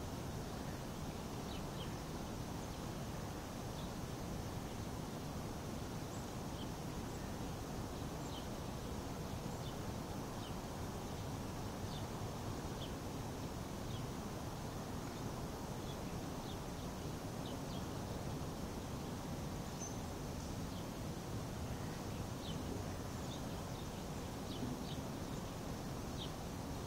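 Steady low background noise outdoors in winter woods, with faint, short, high chirps of small birds calling at irregular moments.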